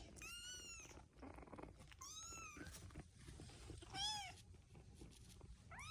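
Kittens mewing: three high-pitched mews, each rising then falling in pitch, with another starting near the end.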